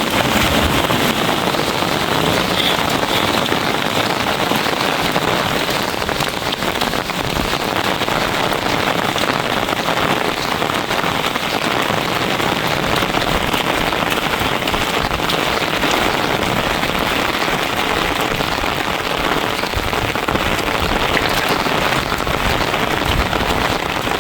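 Steady, loud rain falling, a dense even hiss with no breaks.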